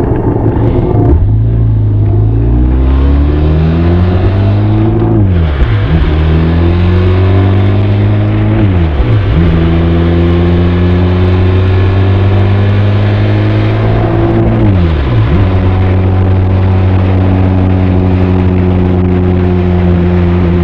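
Benelli TRK 502's parallel-twin engine and exhaust pulling away and accelerating up through the gears: the revs climb and drop back at three upshifts, the last about 15 seconds in, then it settles into a steady cruise.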